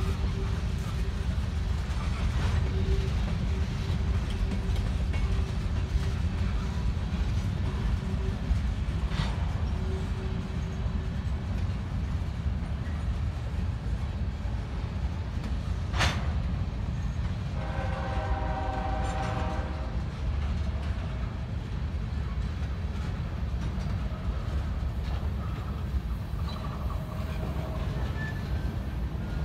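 Freight train rolling past with a steady low rumble and a few sharp clanks, one louder than the rest a little past the middle. Shortly after that, a locomotive air horn sounds one chord-like blast of about two seconds.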